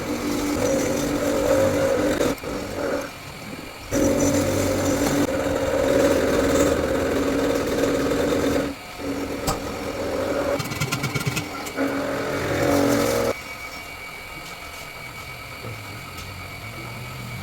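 A power tool's motor running at a steady pitch, breaking off and starting again several times, with a quieter, rougher stretch near the end.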